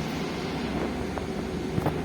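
Cabin noise of a MAZ 215 articulated city bus under way: a steady engine and road rumble, with a couple of short knocks or rattles, the louder one near the end.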